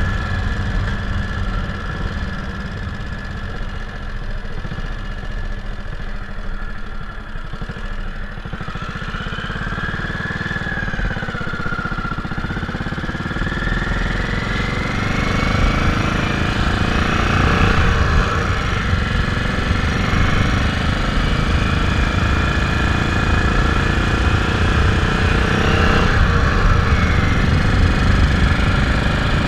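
Moto Guzzi Falcone's single-cylinder engine running on the road, heard from the rider's position. It is quieter for a few seconds, then its pitch and level climb over several seconds as the bike accelerates, settling into a steady run.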